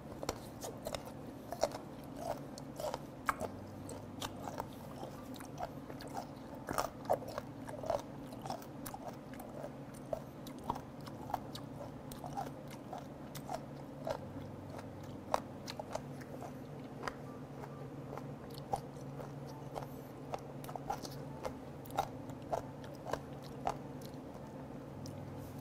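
Close-up chewing of fermented skate nose (hongeo-ko), its cartilage crunching between the teeth in a steady run of crisp crunches, about two or three a second.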